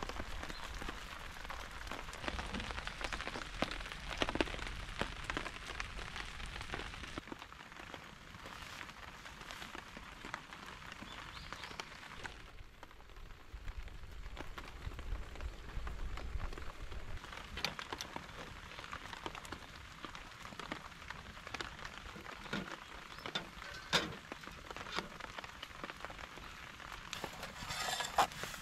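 Steady rain falling, heard as a haze of dense small drop ticks, with a few sharper clicks, the loudest late on and near the end.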